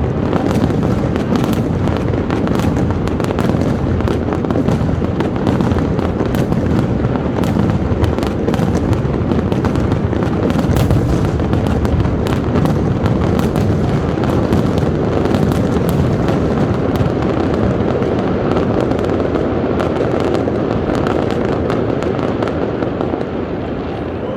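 Aerial fireworks going off in a dense, continuous barrage of bangs and crackles over a steady rumble, easing off slightly near the end.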